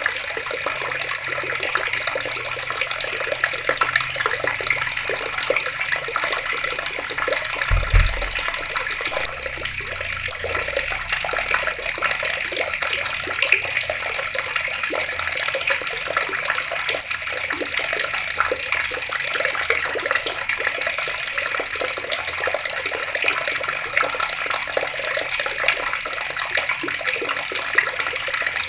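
Water running steadily from an outdoor tap. A brief low thump about eight seconds in.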